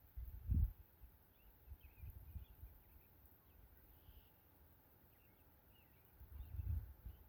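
Faint, scattered chirping of small birds, broken by three low rumbles: a short one at the start, one about two seconds in, and one near the end.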